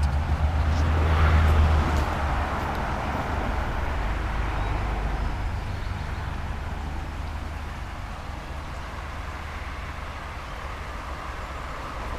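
A motor vehicle passing by: low engine rumble and tyre noise that peak about a second and a half in, then fade slowly as it moves away.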